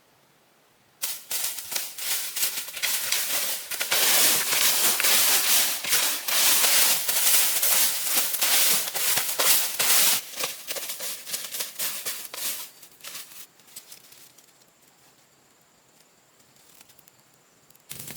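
A dense run of crackling and snapping that starts suddenly about a second in, is loudest in the middle, then thins out and dies away over the last few seconds.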